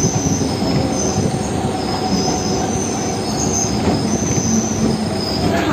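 Local train heard from inside the carriage as it pulls into a station: a steady rumble of wheels on the track, with a high-pitched wheel squeal that comes and goes several times.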